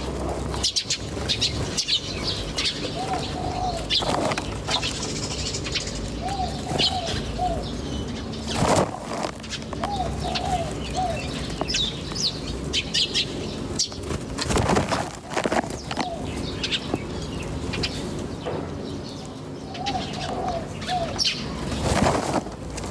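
Small birds chirping, with a short cooing phrase of a few falling notes coming back several times, like a dove or pigeon. A few brief louder noises stand out about a third, two thirds and nearly all the way through.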